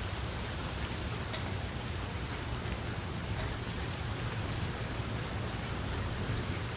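Steady rain falling, an even hiss with a low rumble beneath it and a few single drops ticking out now and then.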